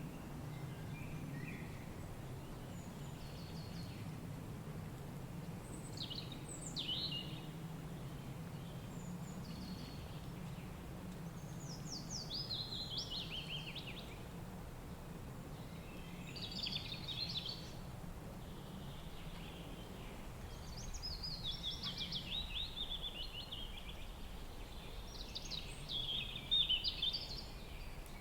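Wild songbird singing five short phrases of quick, high notes, several of them falling in pitch, over a steady low rumble of wind.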